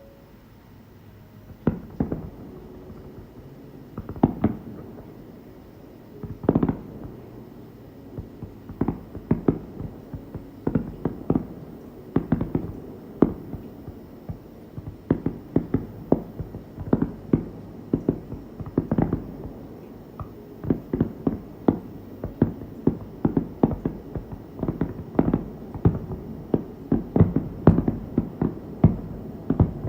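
Fireworks shells bursting overhead in a string of sharp bangs, each with an echoing tail. A few bangs come spaced out at first, then they grow denser, several a second, from about twelve seconds in.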